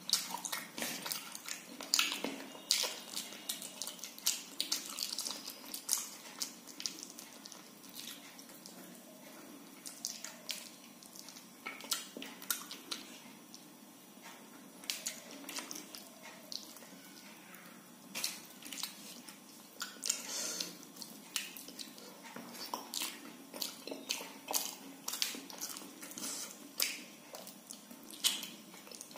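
Close-up eating sounds of soft khichdi and fried fish eaten by hand: wet chewing, lip smacks and mouth clicks in irregular clusters, with a few quieter pauses between mouthfuls.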